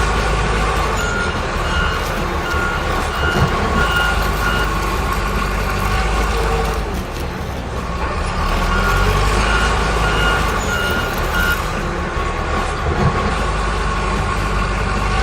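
Truck engine rumble with a reversing beeper sounding in a row of short beeps, the same stretch of sound playing twice over with a brief dip between.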